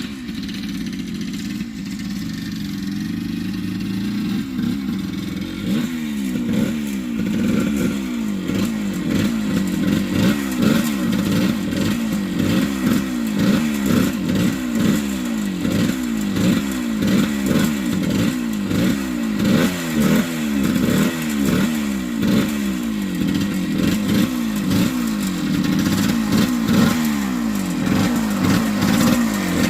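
1978 Yamaha DT100's single-cylinder two-stroke engine running, steady at first, then revved up and down over and over, its pitch rising and falling about once or twice a second.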